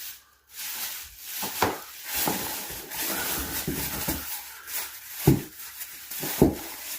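Rustling and handling noises with scattered knocks while a container of drywall mud is looked for and picked up, with two firmer thumps in the last two seconds.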